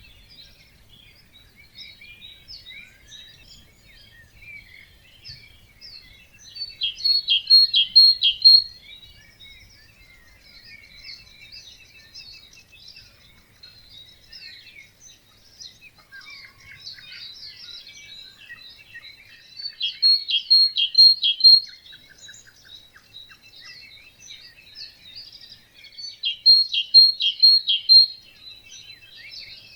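Wetland dawn chorus: many birds singing and chirping together without a break. One louder bird repeats a short phrase of four or five notes about three times, every six seconds or so.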